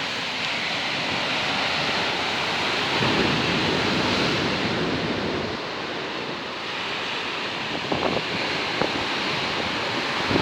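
Stormy sea surf crashing and churning, with strong wind buffeting the microphone. It swells and eases in waves, with a few sharper gusts near the end.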